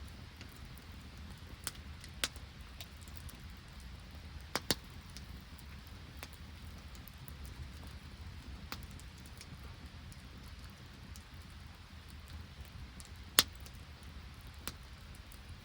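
Open wood campfire crackling, with scattered sharp pops over a low steady rumble; the loudest pop comes about thirteen seconds in.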